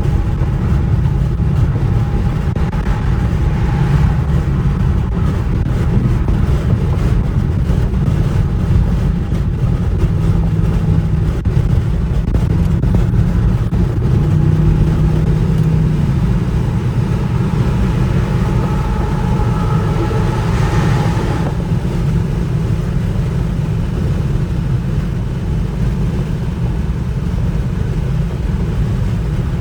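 Dodge Charger R/T's 5.7-litre Hemi V8 engine and exhaust running as the car is driven, a steady low drone whose pitch shifts a little a few times along the way.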